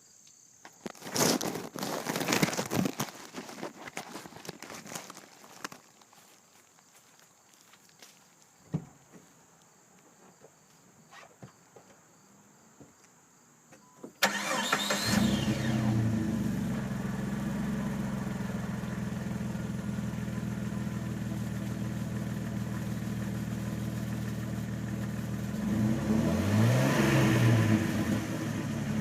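Knocks and rustling, a quiet stretch, then about halfway through a 2001 Jeep Wrangler's 4.0-litre straight-six starts abruptly and settles into a steady idle through its stock exhaust. Near the end it is revved once, the pitch rising and falling back.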